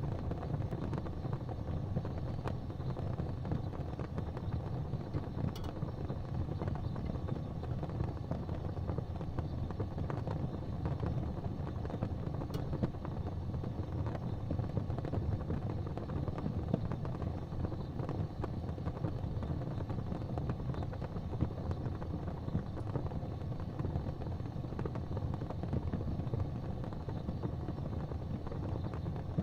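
Fireplace fire crackling, with many small irregular pops over a steady low rumble.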